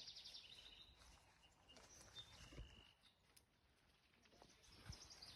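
Near silence outdoors, with a few faint, short, high bird chirps near the start and again around two to three seconds in.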